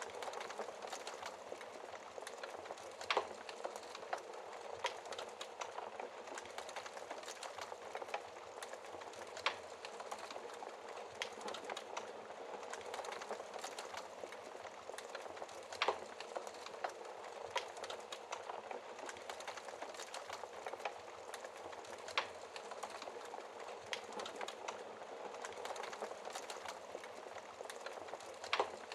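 Fireplace fire crackling: a steady hiss full of rapid small crackles, with a sharper pop about every six seconds.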